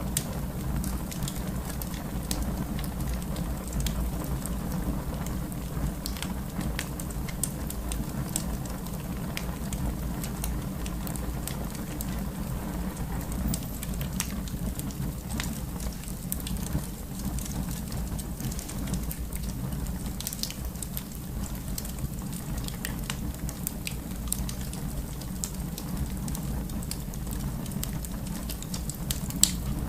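Fireplace fire burning, a steady low rumble of flames with continual small crackles and one sharper pop near the end.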